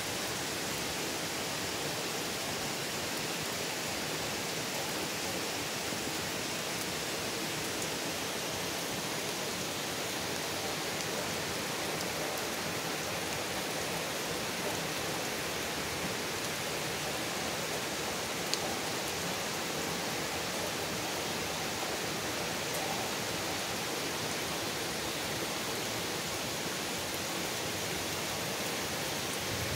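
Steady rain falling on trees, grass and wet pavement, an even hiss with no breaks.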